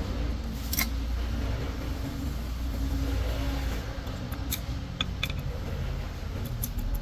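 A steady low engine-like rumble, with a few sharp clicks and taps, one about a second in and several more in the second half.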